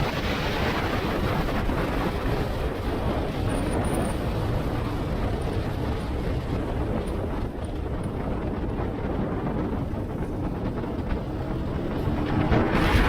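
Wind rushing over the microphone, with the motorcycle's engine and road noise underneath, while riding at speed. The noise is steady and gets a little louder near the end.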